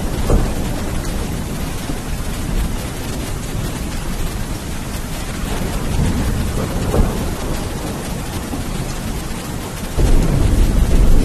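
Steady rain falling through a thunderstorm, with low rolling thunder rumbling underneath. A louder peal of thunder starts near the end.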